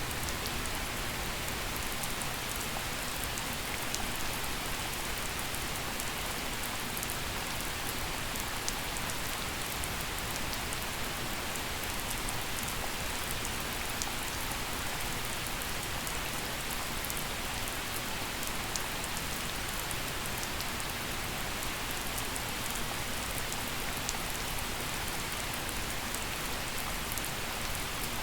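Gentle rain falling steadily: an even hiss of rain with many small, sharp drop ticks scattered through it.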